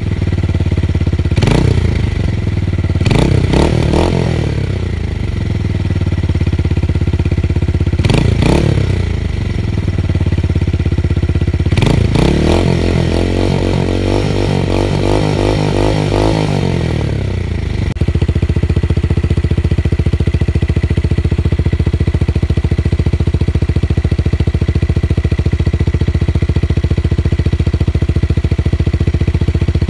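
Motorcycle with a tuned exhaust and a deep bass note being revved: a few short throttle blips, then a longer, wavering held rev. It then settles abruptly into a steady idle with an even low pulsing.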